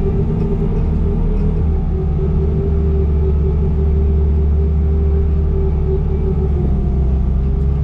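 Bobcat T595 compact track loader running steadily under work, its diesel engine's low hum with a steady whine above it.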